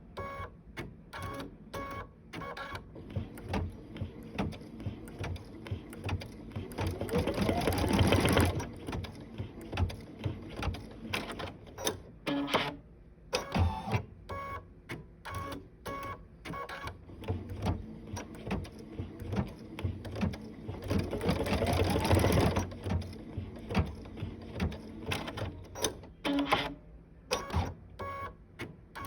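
Sewing machine stitching in short runs of rapid needle clicks. Twice it speeds up into a faster, louder run with a rising whine, about seven seconds in and again near twenty-one seconds.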